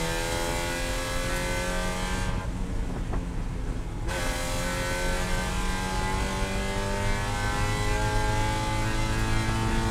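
Spec Miata race car's four-cylinder engine accelerating hard in one gear, heard inside the cabin, its pitch climbing steadily as it revs from about 4,900 to 6,400 rpm. Between about two and four seconds in, the top end of the sound briefly drops out.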